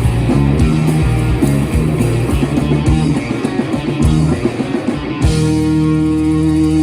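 Live blues-rock band playing loudly with electric guitar and drums; about five seconds in the drums stop and the band holds one sustained ringing chord, the ending of the song.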